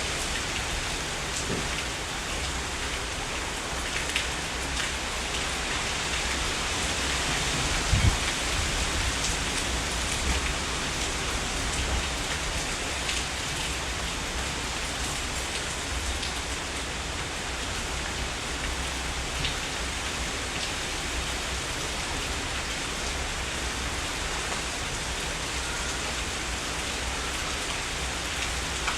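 Heavy rain falling steadily, with single drops ticking close by now and then and a brief low thump about eight seconds in.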